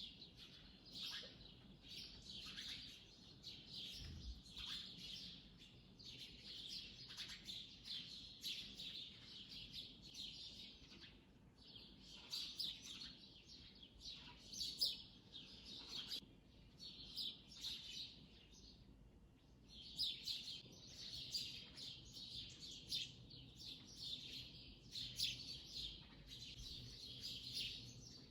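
Small birds chirping and twittering in a busy, faint stream of high calls, with brief lulls.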